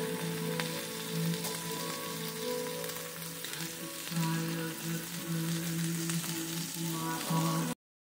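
Chicken gizzards, livers and sliced onions sizzling as they fry in a nonstick skillet, over background music with long held notes. The sound drops out abruptly just before the end.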